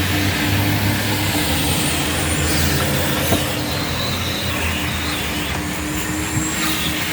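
Coin-operated car-wash vacuum running steadily, a hum under a hiss of suction that shifts a few times as the nozzle works over the interior, with one short knock about three seconds in.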